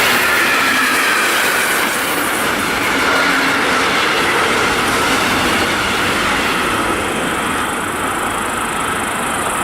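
A train running past on the track: a steady loud rush of wheels on rail, with a faint high whine that slowly falls in pitch. The sound cuts off suddenly at the end.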